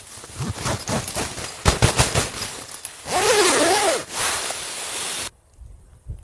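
A zipper being pulled, its whirr rising and falling in pitch about three seconds in, amid rustling and scraping with many small clicks; the noise cuts off abruptly near the end.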